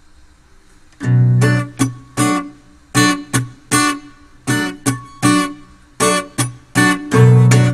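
Acoustic guitar strummed in a steady rhythm, starting about a second in, with a few longer ringing chords among shorter strokes.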